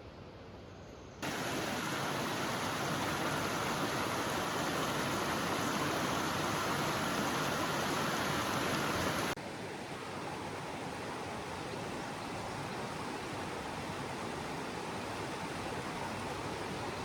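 Steady rush of flowing water. It is louder between about one and nine seconds in, with sudden steps in level at each end.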